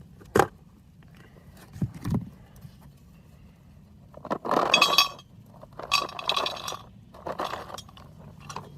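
Clinks, knocks and scraping from handling a thermos and its lid: a sharp click about half a second in, a couple of dull knocks near two seconds, then three bursts of bright rattling and scraping in the second half.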